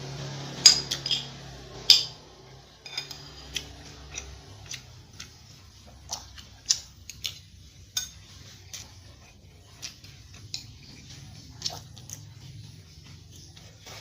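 Metal spoon and fork tapping and scraping against a plate during a meal: a string of sharp clinks, one or two a second, louder in the first couple of seconds.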